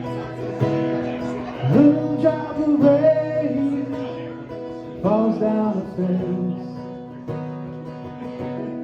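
Acoustic guitar playing a song's opening with strummed, ringing chords, and a wordless voice line sliding up into held notes twice, about two and five seconds in.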